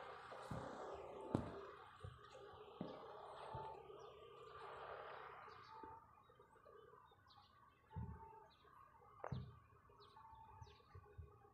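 Faint birds chirping and calling: short repeated notes and quick high chirps, especially in the second half. A few soft low thumps are scattered through it.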